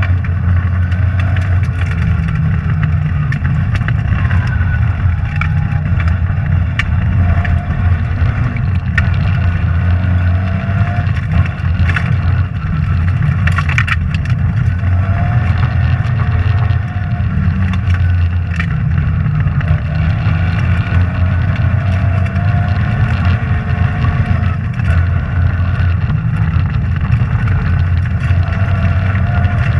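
Rally car engine heard from inside the cabin at speed on a stage, its pitch repeatedly climbing and dropping back as the driver works through the gears, with scattered sharp clicks over the steady drone.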